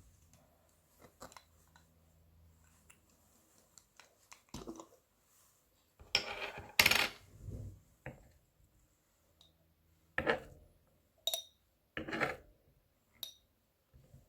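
Kitchen knife working on a cutting board while mincing garlic: scattered knocks and scrapes of the blade on the board, a longer scrape about six seconds in, then single knocks, a couple with a short metallic clink.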